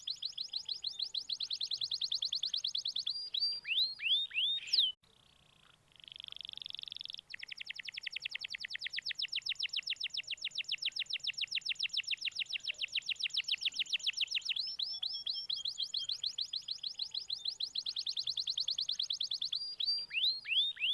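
Domestic canary song used as a lure to coax a reluctant canary into singing: long rapid trills of repeated high chirps. About five seconds in there is a sudden break and a held whistled note, and there are runs of falling notes between the trills.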